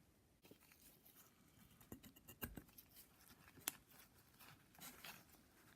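Faint scattered clicks and light scraping as a steel connecting-rod bearing shell is handled and pressed into its seat by hand, with one sharper metallic tick a little past the middle.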